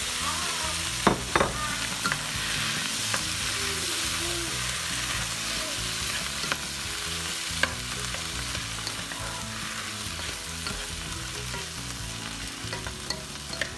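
Onions, garlic and artichoke hearts sizzling in oil in a nonstick pot as quartered grape tomatoes are tipped in and stirred with a wooden spoon. A steady sizzle, with a couple of sharp knocks about a second in and scattered small clicks of the stirring.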